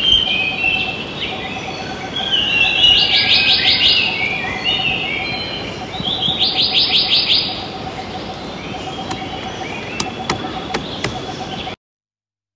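Small birds chirping, with two bursts of rapid trills, over a faint steady pulsing hum; the sound cuts off abruptly near the end.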